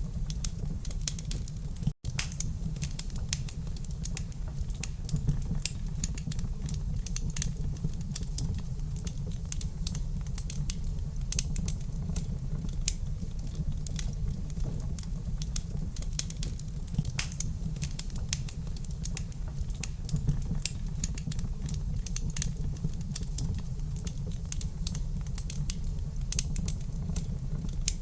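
Wood fire crackling in a fireplace: frequent irregular sharp pops and snaps over a steady low rumble. The sound cuts out for an instant about two seconds in.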